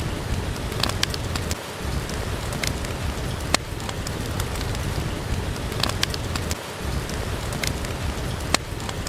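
Steady rain with a low rumble, broken by a few sharp pops and snaps of a crackling wood fire, about six scattered through.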